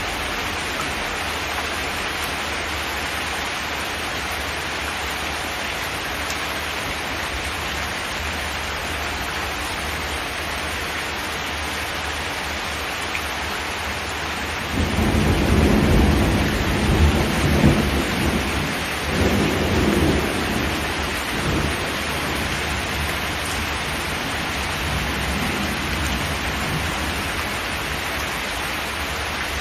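Steady rain drumming on a zinc metal roof. About halfway through, a roll of thunder breaks in low and sudden, rumbling in waves for several seconds before fading back into the rain.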